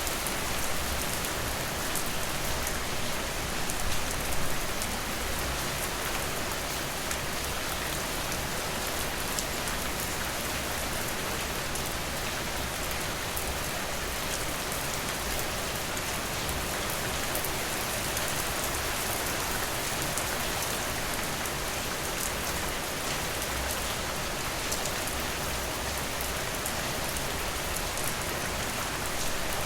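Steady rain falling, an even hiss with scattered individual drops ticking through it and a brief swell in loudness about four seconds in.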